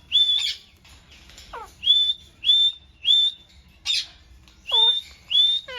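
Ringneck parrot (rose-ringed parakeet) calling: a run of short, high whistled calls, each sweeping upward, about every half-second. A few falling whistled notes are mixed in.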